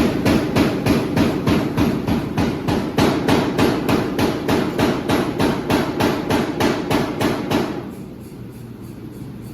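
Blacksmith hammering metal at a forge: rapid, evenly spaced hammer blows, about four a second, over a steady low rumble. The blows stop near the end, leaving the rumble.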